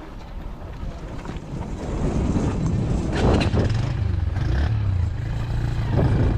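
A vehicle engine running at low speed, growing louder about two seconds in, with a couple of brief sharper sounds over it.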